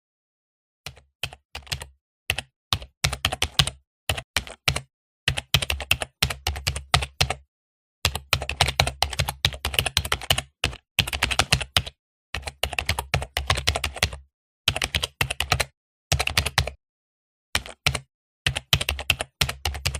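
Computer keyboard typing in rapid bursts of keystrokes, starting about a second in, with short breaks of dead silence between the bursts.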